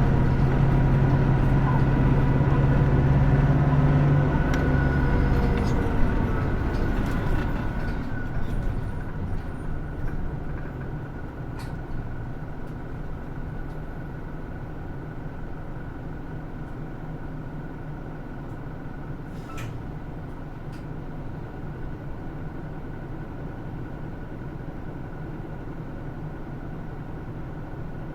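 Hino Rainbow II route bus heard from inside: the diesel engine runs strongly under load for the first few seconds, then its note drops away about six seconds in. A quieter, steady drone follows, with a few faint clicks.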